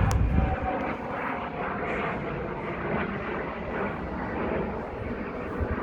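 Aircraft engine noise as a plane flies past overhead: a steady, dense roar with a faint whine in it, and low buffeting on the microphone about the first half-second.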